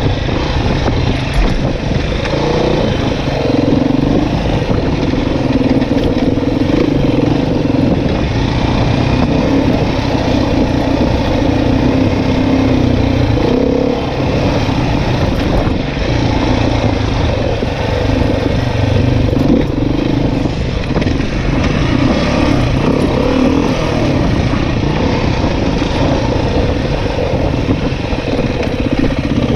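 Dirt bike engine running continuously while being ridden off-road, its pitch shifting up and down with the throttle over a heavy low rumble.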